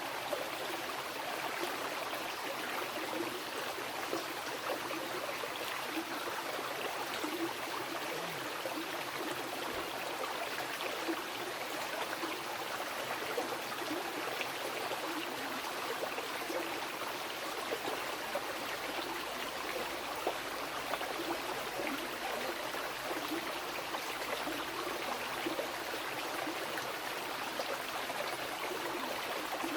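Mountain river flowing steadily over rocks, a continuous rushing with small splashes and gurgles.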